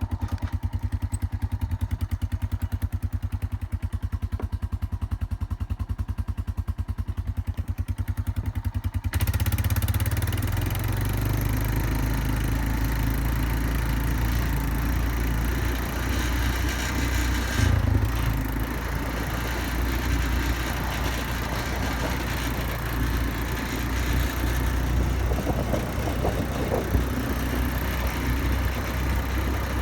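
Four-wheeler (ATV) engine idling with an even, rapid pulse. About nine seconds in it pulls away and runs steadily as it rides along, with a broad rushing noise over the engine.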